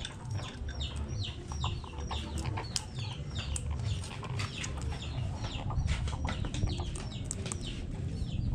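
Birds chirping: a steady run of short, high, falling chirps, several a second, over a low rumble.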